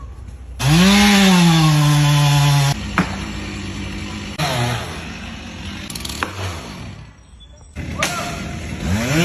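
Two-stroke chainsaw revved to full throttle about half a second in, held for about two seconds, then dropped back to a lower running speed. It revs up again near the end.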